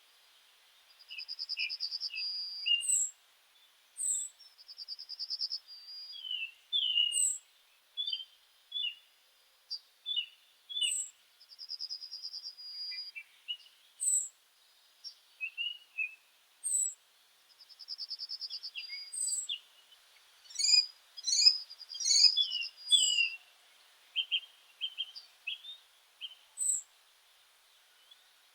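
Meadow songbirds singing. A trill about a second and a half long comes four times, among short high chirps and quick lower notes, with a dense stretch of overlapping calls about two-thirds of the way through.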